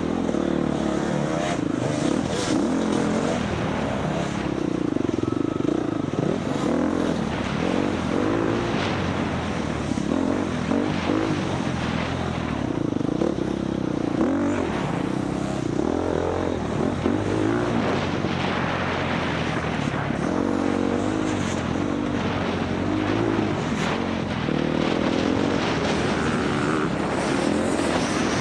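Dirt bike engine being ridden hard off-road, revving up and down continually through the throttle and gears, with scattered knocks and clatter from the trail.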